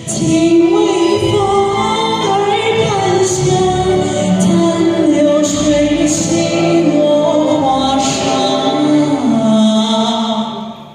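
A man singing a slow Chinese pop ballad in a high voice over backing music, with long drawn-out notes; it fades down just before the end.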